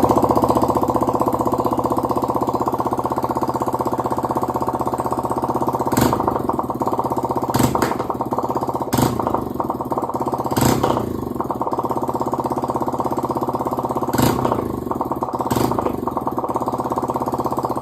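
Yamaha R15's single-cylinder engine running with its silencer removed, open exhaust: a loud steady idle, blipped briefly about six times.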